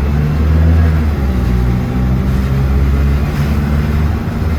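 Bus engine running under way, a loud, steady low drone whose pitch shifts a few times.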